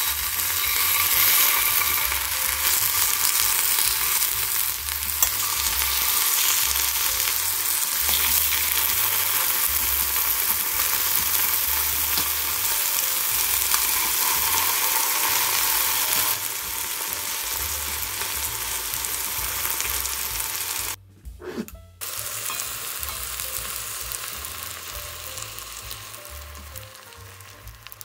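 Tomato slices sizzling as they fry in hot oil in a frying pan. The sizzle drops off for about a second about three quarters of the way through, then comes back and fades.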